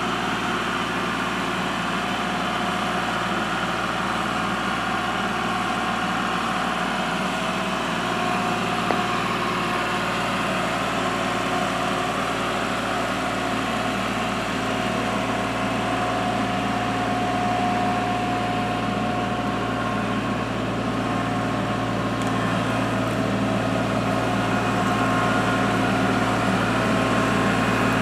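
Kubota L3301 HST tractor's three-cylinder diesel engine running steadily while the tractor is driven, getting a little louder in the last few seconds.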